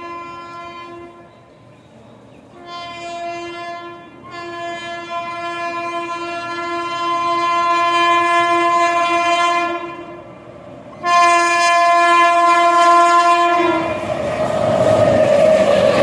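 Train horn sounding in a series of blasts, each one steady chord: a short one, a long one of about five seconds, and a louder one, the horn growing louder as the train approaches. Right after the last blast the train passes close by with the loud steady noise of wheels and carriages.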